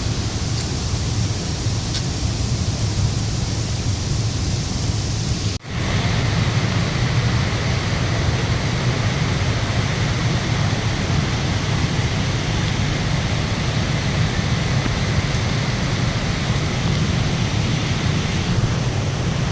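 Steady rushing roar of a waterfall's falling water. It drops out for a moment about five and a half seconds in, then carries on unchanged.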